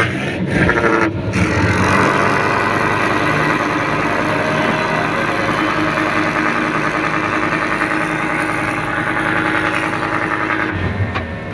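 A boat's engine running steadily, with a couple of sharp knocks in the first second or so.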